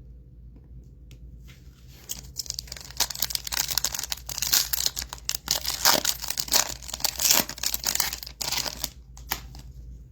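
Foil trading-card pack wrappers being torn open and crinkled, a dense crackly rustle that starts about a second and a half in and dies away near the end.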